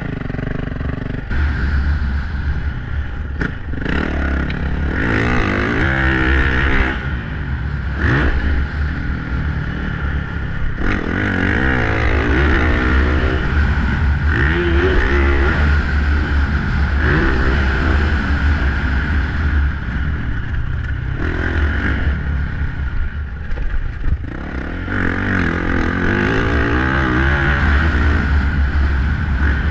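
Motocross dirt bike engine revving up and down over and over as it is ridden around a track, the pitch climbing and dropping through each throttle run, over a steady low rumble.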